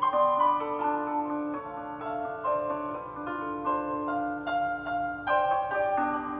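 Background piano music, a gentle melody of single notes and chords.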